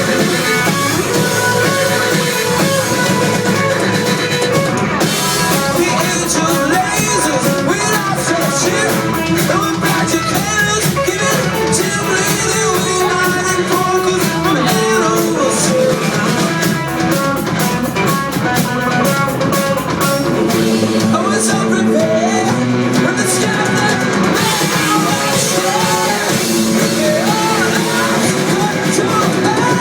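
Live rock band playing loud and continuously: electric guitars over a drum kit.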